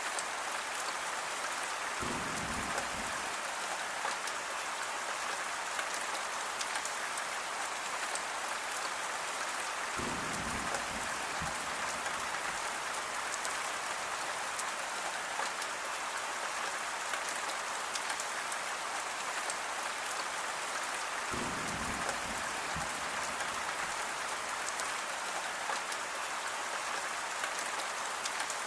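Steady rain falling, an even hiss of drops on a surface. Three brief low rumbles come through it, about 2, 10 and 21 seconds in.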